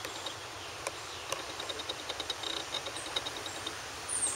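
Rapid, even high-pitched chirping pulses, typical of an insect, with a few sharp clicks and a short high falling chirp near the end.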